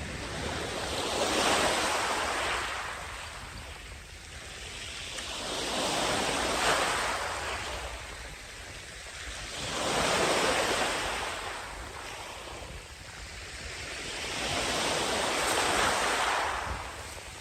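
Sea waves breaking and washing up the beach, the surf swelling and fading four times, about every four to five seconds.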